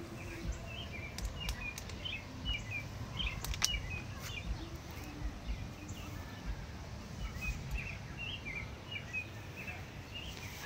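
Songbirds chirping in short, scattered notes over a low outdoor rumble, with one sharp click about three and a half seconds in.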